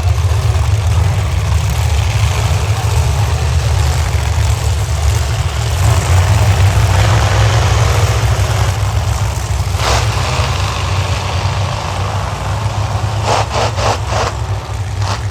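Monster truck engines idling with a deep, rapidly pulsing rumble. There is one short sharp crack about two-thirds of the way through and a quick run of several more near the end.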